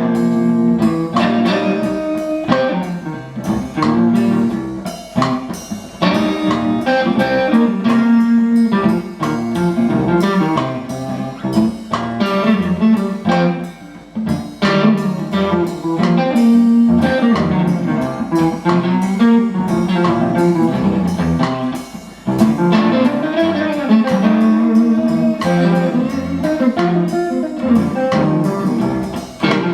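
Blues band playing an instrumental passage with no vocals, led by guitar over bass and a steady drum beat.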